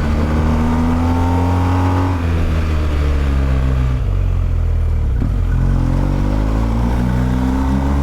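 Motorcycle engine under hard acceleration, rising in pitch and dropping at a gear change about two seconds in. It eases off around the middle, then climbs again through the revs. Heavy wind rush on the helmet microphone runs underneath.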